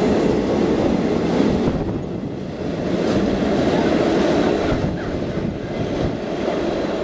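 Loaded double-deck car-carrier freight wagons rolling past on the rails, the steady wheel-on-rail noise thinning and fading as the end of the train goes by.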